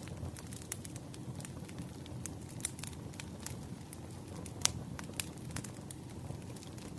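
Wood fire burning, its logs crackling: irregular sharp pops and snaps over a low steady rumble, with one louder pop about halfway through.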